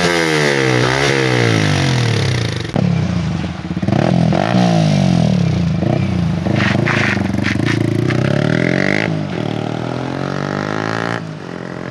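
Yamaha R15 V3's 155 cc single-cylinder engine revved through an aftermarket full-system exhaust, the revs rising and falling several times in quick blips.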